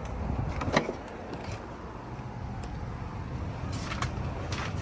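Steady low rumble of outdoor background noise, broken by a few short knocks.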